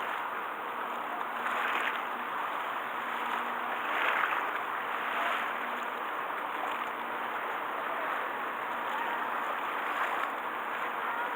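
Sea water washing and sloshing, a steady noisy wash that swells and eases every second or so.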